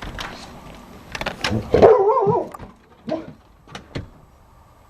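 A dog gives one wavering, whining bark about two seconds in, amid several sharp clicks and knocks.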